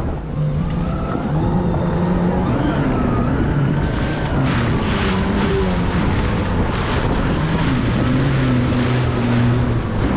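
Jet ski engine running, its pitch stepping up and down as the throttle is worked. From about four seconds in there are pulses of rushing hiss over it.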